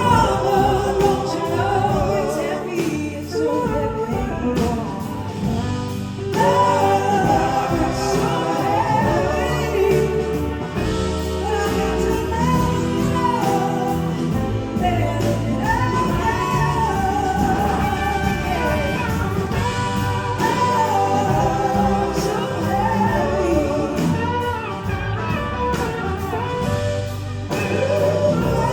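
Live blues-rock band playing an instrumental passage: a wavering lead melody with heavy vibrato over bass, drums and keyboards.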